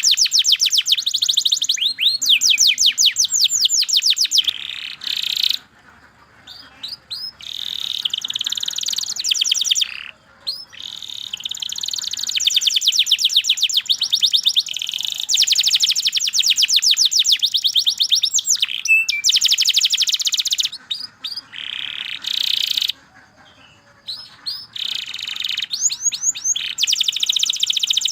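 Domestic canary singing a long song of fast, high-pitched rolling trills, breaking off briefly three times.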